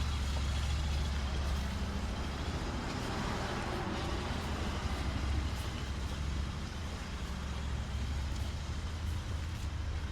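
Street traffic: a motor vehicle's low, steady engine rumble, with a swell of engine and tyre noise as it passes about four seconds in.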